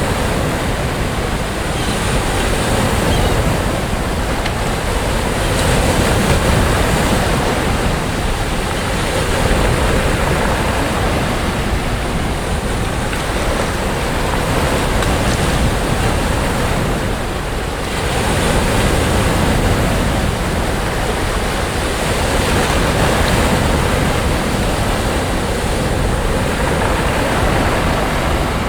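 Sea waves breaking and washing up on a beach, a continuous surf with gentle swells every few seconds, with some wind on the microphone.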